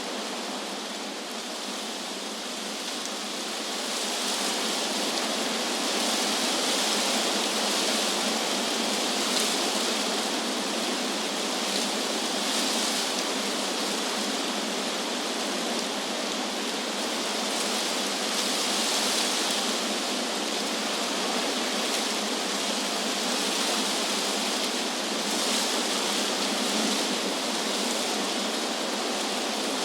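Wind blowing through trees: a steady rushing hiss of leaves that grows louder a few seconds in, then swells and eases in slow gusts.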